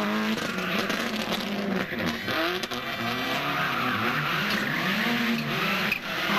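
Rally car engine driven hard, its pitch climbing and dropping repeatedly with gear changes and lifts off the throttle, over a hiss of tyre and road noise.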